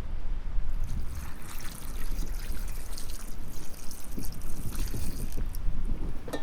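Water running in a thin trickling stream, starting about a second in and stopping near the end, over a steady low rumble.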